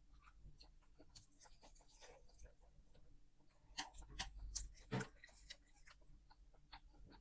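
Faint close-up eating sounds of a person chewing noodles, with small scattered clicks and taps and a louder cluster of them about four to five seconds in.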